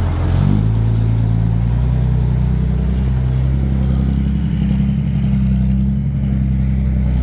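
Dump truck's diesel engine running steadily under way. Its note rises briefly about half a second in, then holds as an even drone.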